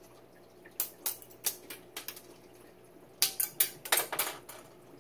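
Scissors snipping the tines off a plastic fork: a string of sharp clicks and snaps, a few spread out in the first half and a quicker cluster in the second half.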